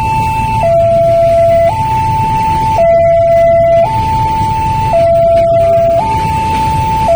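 Electronic railway level-crossing warning alarm sounding: two pure tones alternate steadily, a higher and a lower, each held about a second. A low rumble runs underneath.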